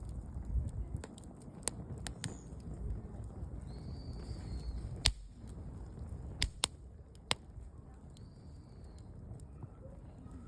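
Wood campfire burning with a low rumble and scattered sharp crackles and pops, the loudest about five seconds in and a quick cluster a little after.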